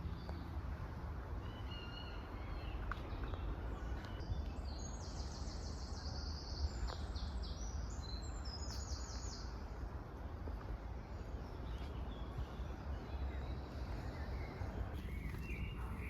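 Woodland birds singing, with rapid high trills repeated several times in the middle and a few short chirps earlier, over a constant low rumble of wind on the microphone.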